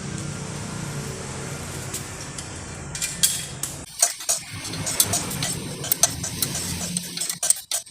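Hand tools and metal parts clinking and clicking during motorcycle engine reassembly, with a steady low hum underneath that gives way to a run of sharp metallic clinks about three seconds in.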